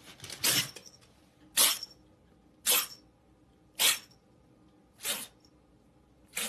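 A pet animal giving a series of six short, breathy, sneeze-like huffs, evenly spaced about one a second.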